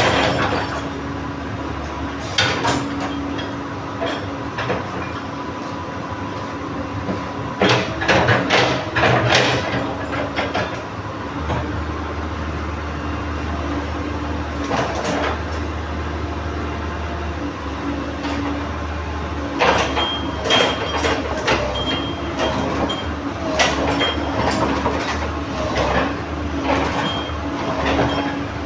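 Komatsu PC130 excavator's diesel engine running steadily, with clusters of metal clanks and knocks from work on its steel track. A deeper engine drone comes in about eleven seconds in, and the clanking is busiest in the last third.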